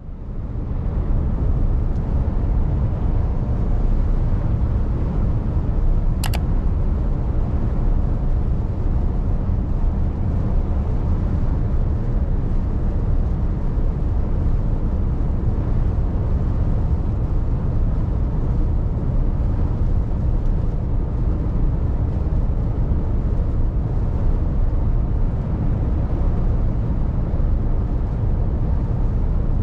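Mercedes Actros truck running, a steady low rumble of engine and road noise, with a single brief click about six seconds in.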